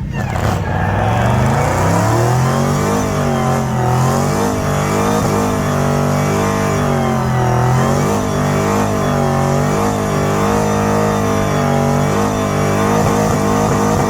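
Buick Electra's 455 big-block V8 revving up over the first couple of seconds, then held at high revs with its pitch wavering up and down as it does a burnout.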